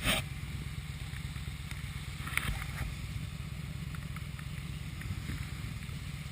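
Motorcycle being ridden, its engine and the wind making a steady low rumble, with a short rush of noise right at the start.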